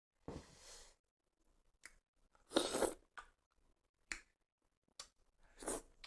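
Close-miked eating sounds of rice and dal: several short, wet, noisy bursts with quiet gaps between them.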